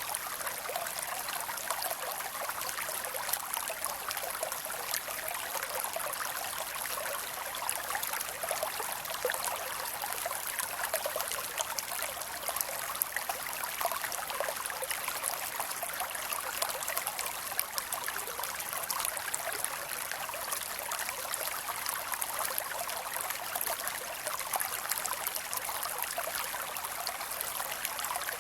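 Creek water flowing and trickling over rocks, a steady splashing babble.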